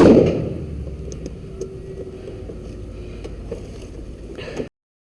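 A loud bang from a detonated charge at the start, its ringing fading over about a second, followed by steady wind rumble on the microphone with a few faint clicks; the sound cuts off abruptly near the end.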